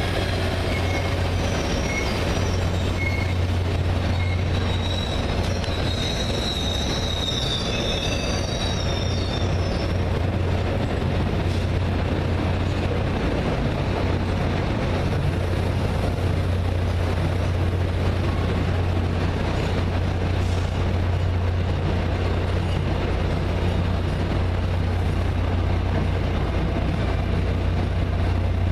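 Train rolling through the station, steel wheels squealing for about the first ten seconds over a steady low rumble.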